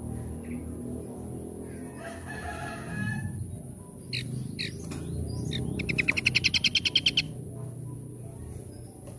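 Songbird calls: a few sharp, falling whistled notes, then a loud, rapid trill of about a dozen notes a second lasting about a second. A steady high-pitched whine and a low rumble run underneath.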